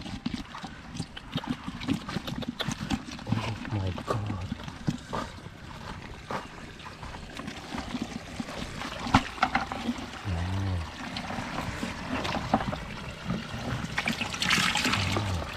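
Shallow flowing water trickling and splashing, with many small knocks and a few short low hums. A louder rush of water comes near the end.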